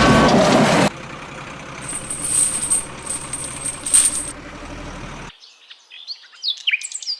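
A loud noisy rush lasting about a second, then a few seconds of light high clinking and hiss, then birds chirping from about five seconds in.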